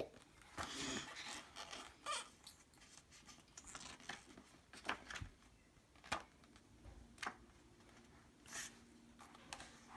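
Faint rustling and scattered small clicks of paper being handled, such as the pages of a picture book.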